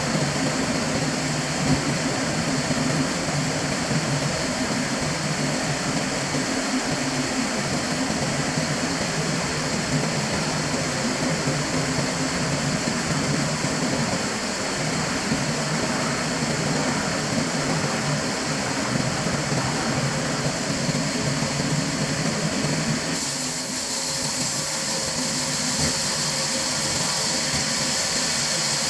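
Machinery running steadily with a low hum. About 23 seconds in, the sound changes abruptly to a hissier one.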